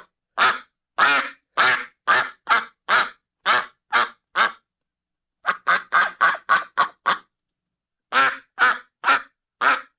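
Duck quacking: a run of about ten quacks at roughly two a second, then after a short pause a faster run of quacks, and after another pause a few more.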